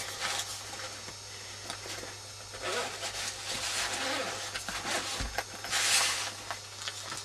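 Rustling and handling of a multimeter's carrying case and the meter inside it, with a brief louder rasp about six seconds in. A steady low hum runs underneath.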